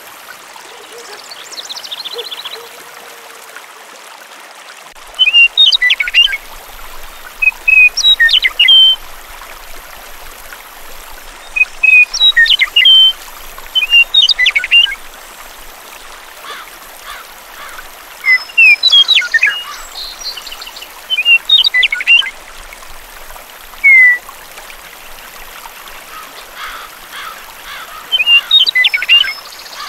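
A small bird chirping in short, quick phrases that repeat every couple of seconds, over a steady hiss of running water.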